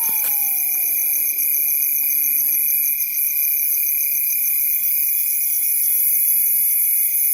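Night chorus of crickets and other insects: a steady, high trilling with a fast-pulsing tone. Faint distant human shouts come in around the first second.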